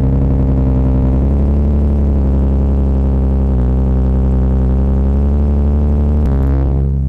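Nissan 370Z's VQ37VHR 3.7-litre V6 idling steadily through an ISR single-exit GT exhaust, just after starting. The idle note shifts slightly about halfway through and again near the end.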